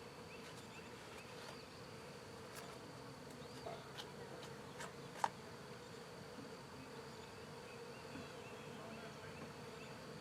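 Honey bees buzzing steadily as they fly around a swarm-trap nuc box, with a single sharp click about five seconds in.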